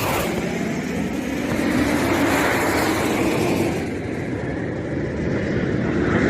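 A loud, rushing roar, as of a military jet crash and its fireball. It swells about two seconds in, eases off, and builds again near the end.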